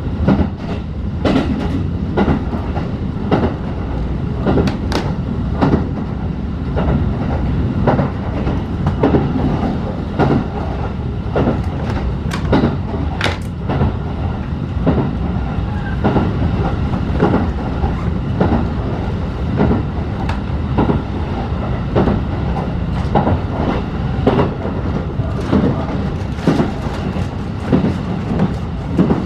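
Passenger coach running on the rails, heard inside the car: a steady rumble with frequent sharp clacks of the wheels over rail joints.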